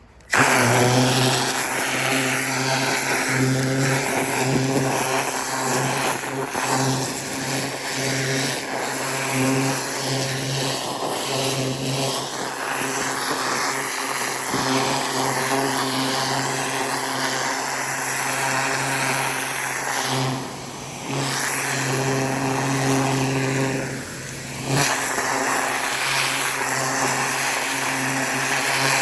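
A 4200 psi gas pressure washer with a rotating nozzle runs steadily, its engine hum under the hiss of the high-pressure spray. The sound drops briefly twice, about two-thirds of the way through.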